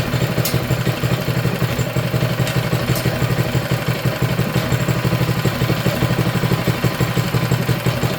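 Small single-cylinder four-stroke engine idling steadily, with a fast, even exhaust beat.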